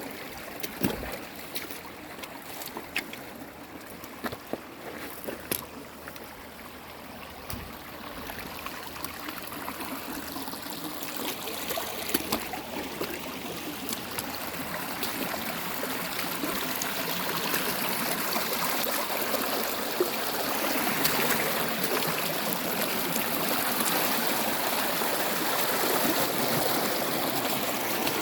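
Running water in a small stream, trickling and splashing over stones, with many small drips and plinks; the flow grows gradually fuller and louder through the second half.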